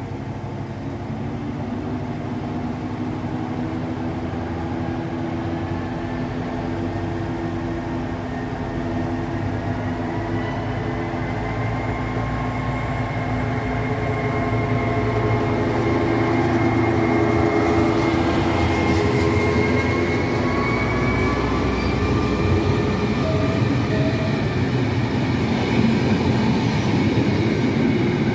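A train running and gathering speed, growing steadily louder, its machinery tones slowly rising in pitch over a continuous rumble.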